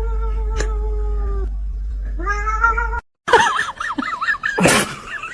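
A cat's long, drawn-out yowl held on one pitch, then a shorter rising meow about two seconds in. After a brief break come rapid, wavering high-pitched cries and a sudden noisy burst near the end.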